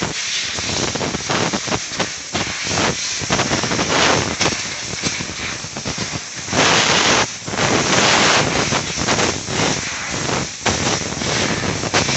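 Compressed-air blow gun hissing in uneven blasts, blowing rinse water off a freshly washed bicycle to dry it; the blasts are loudest a little past the middle.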